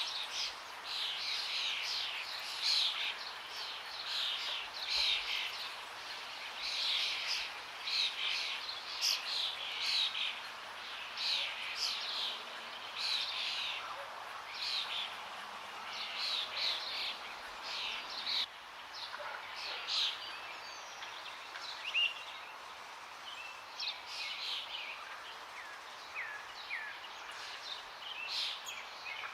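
Several birds calling and singing in quick, overlapping short phrases over the steady rush of running water. The calls crowd together for roughly the first two-thirds, then thin to scattered chirps.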